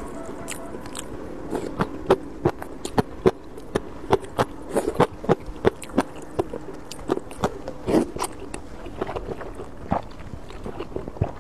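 Close-miked eating sounds: wet mouth clicks and smacks from chewing a mouthful of rice noodles, several sharp clicks a second from about a second and a half in.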